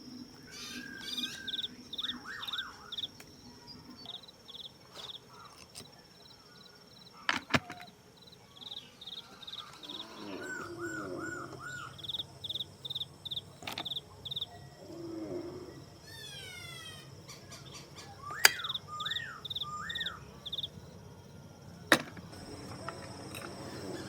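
Small birds singing and calling: repeated quick runs of high chirps and rising-and-falling whistles, with a few sharp clicks scattered through.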